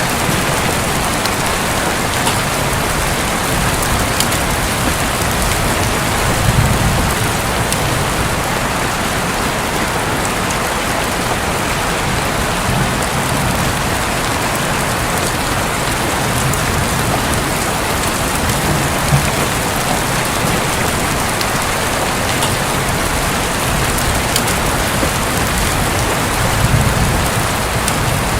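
Heavy rain falling steadily on a roof, as an even hiss with scattered faint drop ticks. Two brief low rumbles come through, about six or seven seconds in and near the end.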